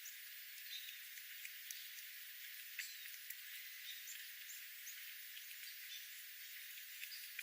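Small birds giving faint, short high chirps and ticks every so often over a steady hiss.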